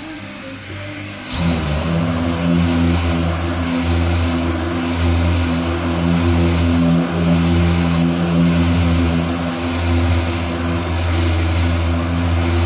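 A workshop machine's motor switches on about a second in and runs steadily with a low, even hum.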